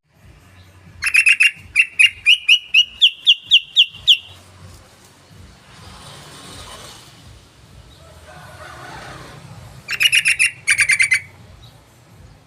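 Yellow-vented bulbul (trucukan) calling: a quick chatter, then a run of about ten sharp, clear notes that climb slightly in pitch and end about four seconds in. A second short, rapid chatter comes near the end.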